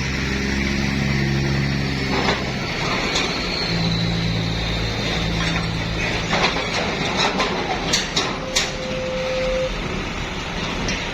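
Large diesel bus engine running, its low hum fading out twice, with a steady wash of road or machine noise and scattered sharp clicks and knocks in the second half, plus a brief steady tone about nine seconds in.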